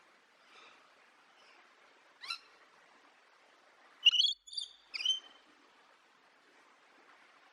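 A parrot calling: one short sharp call about two seconds in, then a quick run of shrill high calls a little past the middle, the first of them the loudest.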